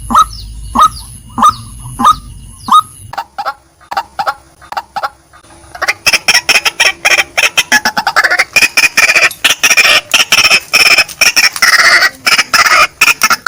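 Female white-breasted waterhen calling: a run of loud, clucking notes about every two-thirds of a second, each falling in pitch, then fainter, quicker notes. About six seconds in, the calls turn to a dense, rapid, harsh chattering.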